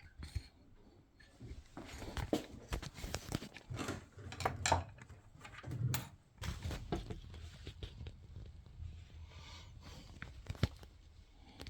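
Irregular clicks, knocks and rustling of hands and tools working on the inside of a gas boiler, with a single sharp click near the end.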